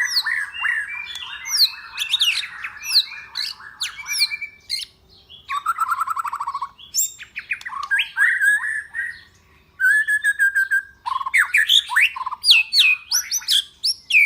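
A bird calling: a rapid buzzy trill for the first four seconds or so, then a long run of sharp, quickly falling whistles, chirps and squawks.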